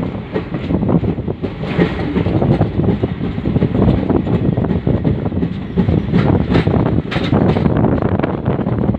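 Train running along the track, heard from on board: a steady rumble with the clatter of wheels over the rails and a few sharper clicks a little past the middle.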